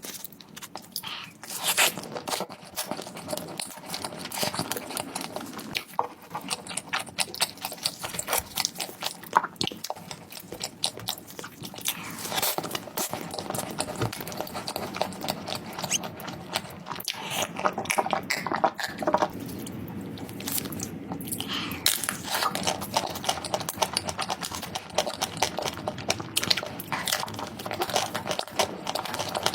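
Close-up eating: food being bitten and chewed, a dense irregular run of crisp crunches.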